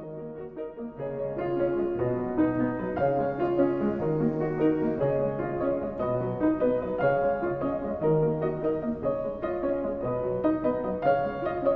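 Background piano music: a gentle melody over chords, a little quieter in the first second.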